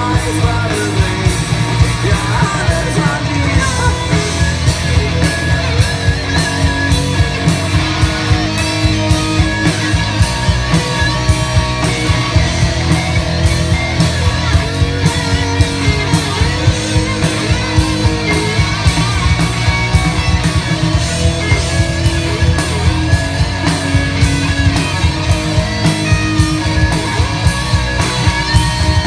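Live band playing rock music: electric guitars over a steady drum beat.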